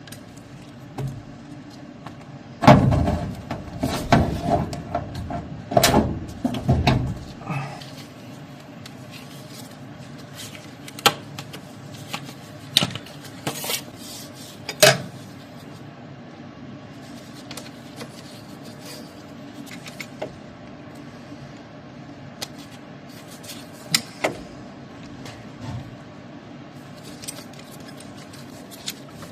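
Metal hand tools clinking and knocking against the fittings of a furnace's copper oil line during repair: a run of rapid, heavier knocks a few seconds in, then scattered single clinks.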